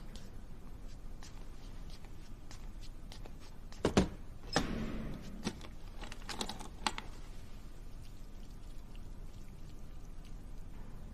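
Small objects being handled: a couple of sharp clicks and knocks about four seconds in, a short rustling, pouring-like noise right after, and a few lighter clicks near seven seconds, over a low steady hum.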